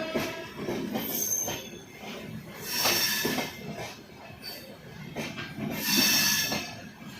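Passenger train pulling out of the station, its carriages rolling past with a low rumble. Two loud bursts of high-pitched wheel squeal come about three and six seconds in.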